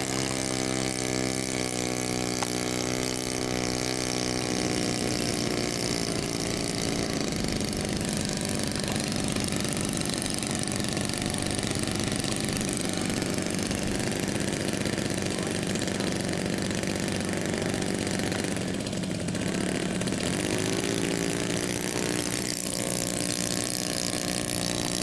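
Model airplane piston engine running steadily at high speed after revving up just before. Its pitch drops and then climbs back about three-quarters of the way through.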